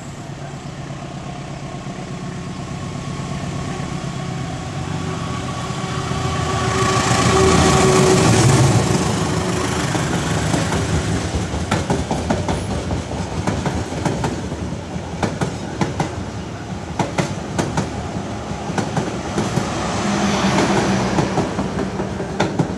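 A diesel-hauled passenger train passing close by. The locomotive's engine drone builds to its loudest about eight seconds in, then the coaches follow with a run of wheel clicks over the rail joints. A second engine drone swells near the end.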